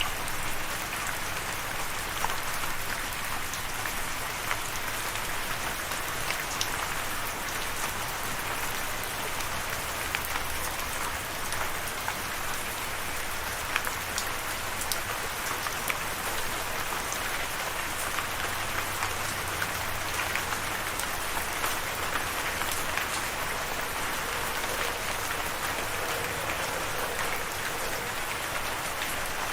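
Steady rain falling, an even hiss with scattered sharper drop hits standing out here and there.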